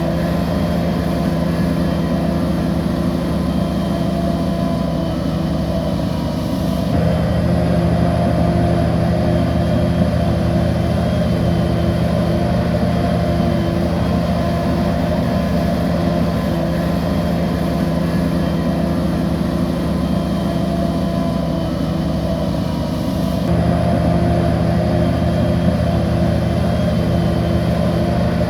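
Heavy bulldozer diesel engine running steadily under work at a level, unchanging pitch. The sound steps a little louder about seven seconds in and again near the end.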